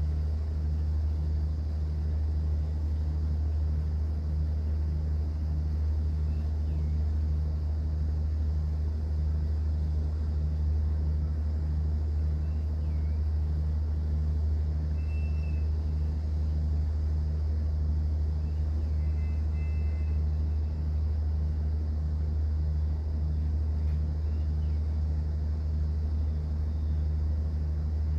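Cruise boat's engine heard on board: a low, steady drone with a faint regular throb in it.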